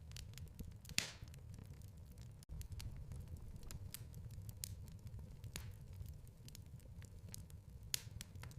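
Wood fire crackling in a fireplace: a steady low rumble of burning with scattered sharp pops, the loudest about a second in and another near the end.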